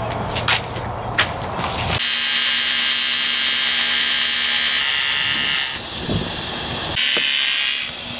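Some clicks and knocks, then a small motor running with a loud, high-pitched whir for about four seconds, stopping, and running again briefly for about a second.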